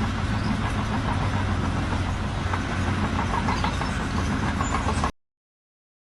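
A machine's engine running steadily with some mechanical clatter, cut off abruptly about five seconds in.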